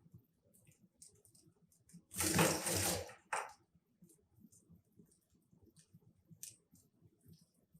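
Wood fire burning in a fireplace, the logs crackling with scattered sharp pops. About two seconds in comes a louder burst of noise lasting about a second, followed by a brief second one.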